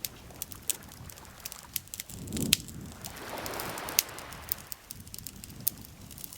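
Wood campfire crackling, with frequent sharp pops and snaps; the loudest come about two and a half and four seconds in. Under it, soft swells of rushing noise rise and fall.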